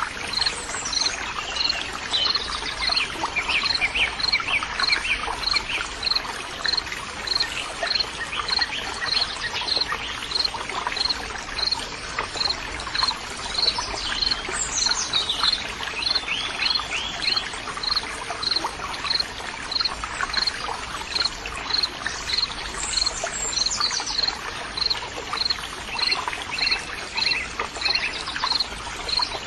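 Nature ambience: steady trickling water under an insect chirping in an even rhythm, about one and a half chirps a second, with birds calling now and then.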